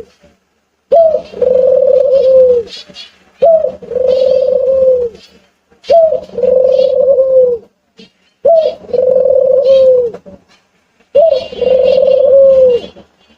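A bird's cooing call, repeated five times about every two and a half seconds. Each call is a short upward note followed by a held steady tone of about a second and a half, with fainter high chirps over it.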